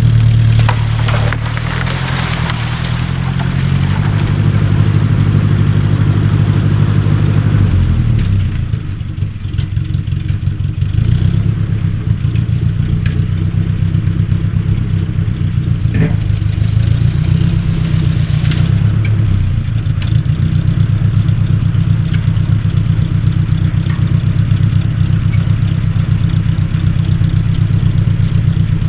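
1953 Ford Jubilee tractor's four-cylinder gasoline engine running. Its pitch varies over the first few seconds and sags briefly about eight seconds in, then holds steady.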